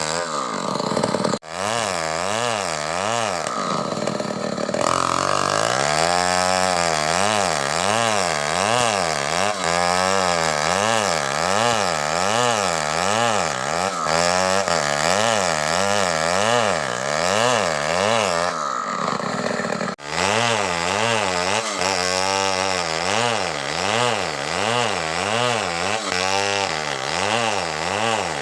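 Two-stroke chainsaw running under load, cutting a coconut palm trunk into a beam, its engine pitch rising and falling about once a second as the bar bites. The sound breaks off sharply twice, about a second and a half in and near the twenty-second mark.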